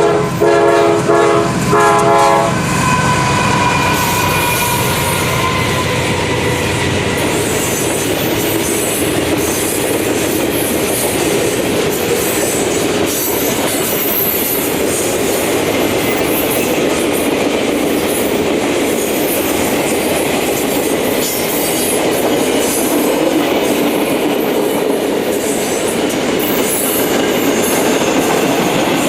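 A freight train led by a Conrail diesel locomotive passing at speed: a few short horn blasts at the start, then the steady rolling rumble and clickety-clack of the freight cars, with faint wheel squeal.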